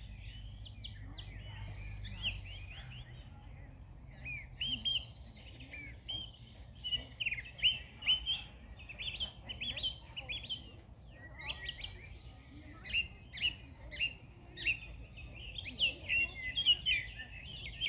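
Several songbirds singing and chirping, a dense chorus of quick high chirps and trills that grows busier a few seconds in, over a steady low background rumble.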